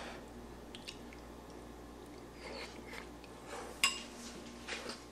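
A person chewing a mouthful of scalding-hot corn chowder, with a few faint mouth noises and one sharp click a little under four seconds in.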